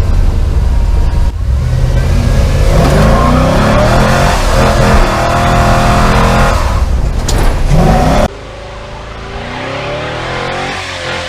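Chevy C10's swapped-in 6.0-litre LQ4 V8 accelerating hard, its note climbing in pitch. About eight seconds in the sound drops suddenly, leaving a quieter engine note that rises again.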